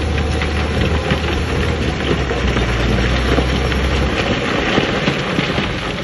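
Diesel engine of heavy earthmoving equipment running steadily under a dense crackling rattle; the low engine drone fades about four seconds in.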